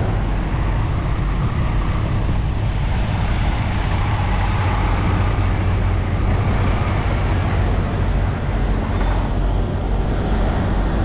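Steady road-vehicle noise with a deep, constant low rumble, unchanging throughout.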